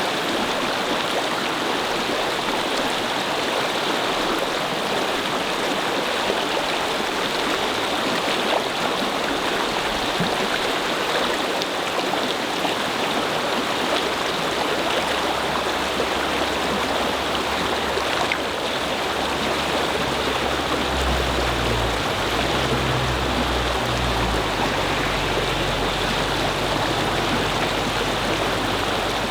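Brook water babbling and rushing steadily over stones. A low rumble comes in during the second half, peaking about two-thirds of the way through.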